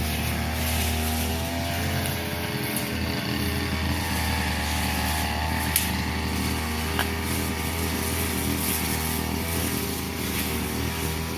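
Petrol brush cutter running steadily while cutting grass, its engine pitch wavering slightly under load, with a sharp tick about six seconds in.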